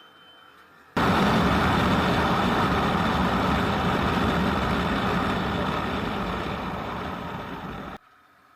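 Loud vehicle noise of a moving motorcycle, a steady rush of engine and wind. It starts abruptly about a second in, slowly gets quieter, and cuts off abruptly near the end.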